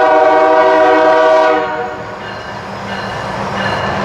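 Diesel freight locomotive's multi-chime air horn sounding a chord of several steady tones for the grade crossing, cutting off about a second and a half in. The horn gives way to the rumble of the lead GE diesel locomotives working the intermodal train up to the crest of the grade, with rail noise growing as they near.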